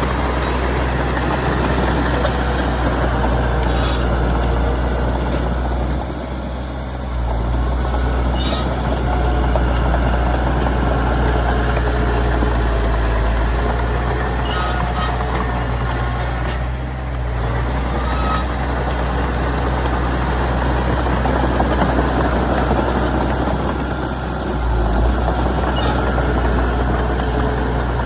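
Komatsu D31PX bulldozer's diesel engine running steadily with a deep drone, dipping briefly in loudness three times, with a few sharp clicks over it.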